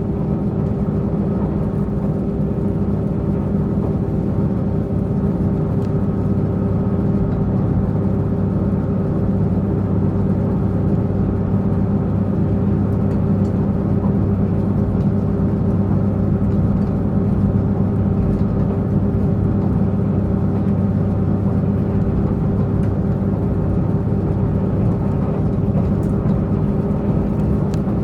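Diesel multiple-unit express train's underfloor diesel engine running steadily under way, heard from inside the passenger car as an even drone with rumbling running noise.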